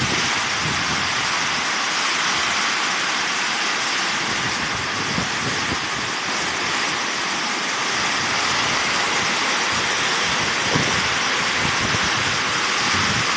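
Heavy rain pouring down in a windstorm, a steady loud hiss, with wind gusts rumbling on the microphone.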